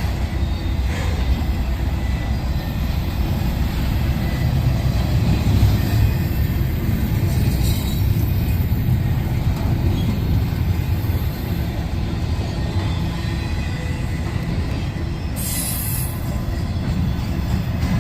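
Train rolling past: a steady low rumble of rail cars and wheels on the track, with a faint high wheel squeal and a brief high burst of noise near the end.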